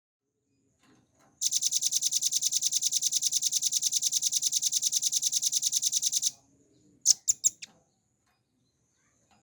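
Velvet-fronted nuthatch singing a long, fast, high-pitched trill, about twelve even notes a second for about five seconds (the drilling 'ngebren' song), followed by three or four sharp, loud notes.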